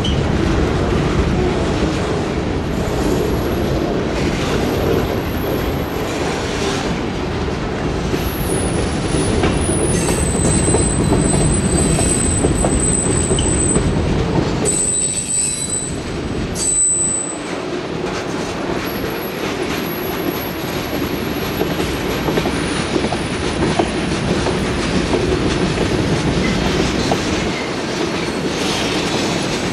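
Train cars rolling past with a steady rumble and clatter of wheels on rail. High-pitched wheel squeal comes and goes from about eight to seventeen seconds in.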